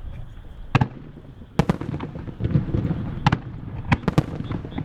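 Starmine fireworks barrage: sharp shell bursts about a second in, a quick pair a little later, then several more in close succession near the end, over a steady low rumble of further bursts and echoes.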